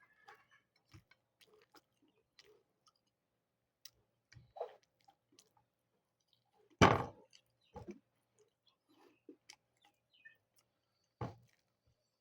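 A rooster eating, with irregular small pecks and clicks of its beak at the food. A louder knock comes about seven seconds in, and smaller ones about four and a half and eleven seconds in.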